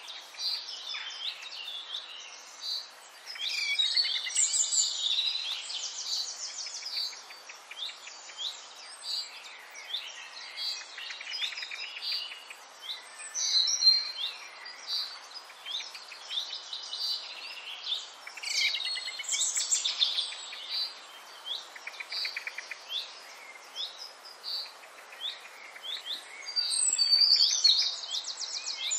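Birdsong: several small birds chirping and trilling without a break, short whistled notes and fast trills overlapping.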